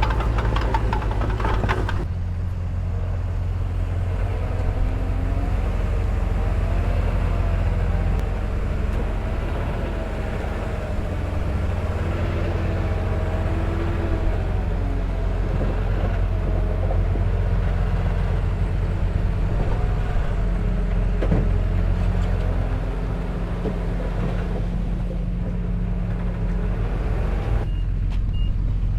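Heavy construction machine's diesel engine running steadily, its note wavering up and down in the middle. A reversing alarm starts beeping near the end.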